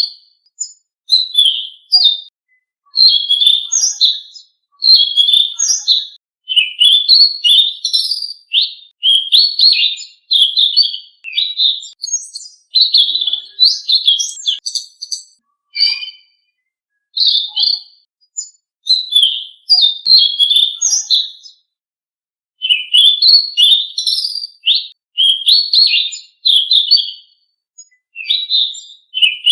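Song of a selendang biru songbird, as played in a masteran recording: rapid high chirps and whistled phrases that slur up and down, in bursts of one to two seconds separated by short pauses.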